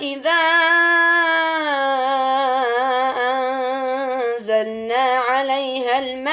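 A male reciter chanting the Quran in melodic tajweed style, drawing out long ornamented vowels with a wavering, trembling pitch.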